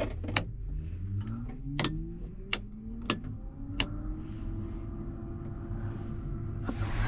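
Truck idling, with a whine that rises in pitch over the first few seconds and then holds steady, and a handful of sharp clicks.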